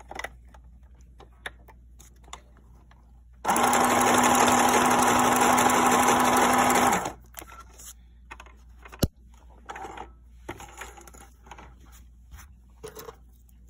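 New Home Janome mini sewing machine running for about three and a half seconds, sewing the long letter-D stitch on cotton fabric: a steady hum that starts and stops abruptly. Small handling clicks come before and after, with one sharp click about two seconds after it stops.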